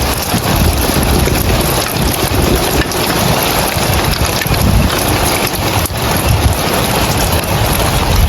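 Heavy rain falling on roof tiles, a dense steady patter, with wind gusting against the microphone as an uneven low rumble.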